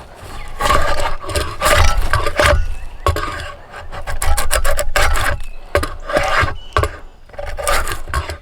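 Hand tool shaving or rasping a yew bow stave in a series of long, repeated strokes.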